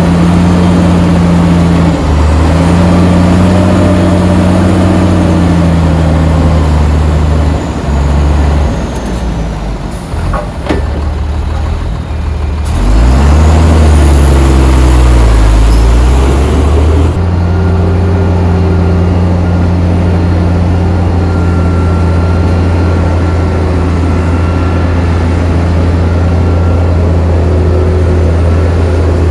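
Heavy diesel engine of earthmoving machinery running loud and steady; about a third of the way in its note drops and wavers, then swings up and back down under load before settling into a steady run again.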